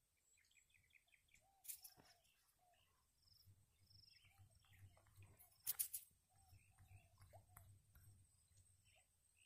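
Faint birds chirping and calling, many short notes throughout. Two brief louder noises break in, about two seconds in and again near six seconds.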